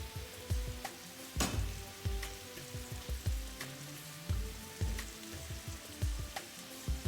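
Food frying in a pan, with an even sizzle throughout, over background music with a steady low beat.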